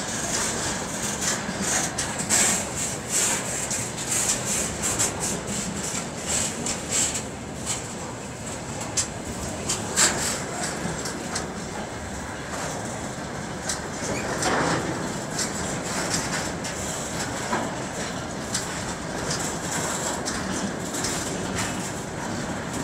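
Freight train of tank cars rolling past close by: a steady rumble of wagons with repeated clattering knocks from the wheels over the rail joints, the sharpest about ten seconds in.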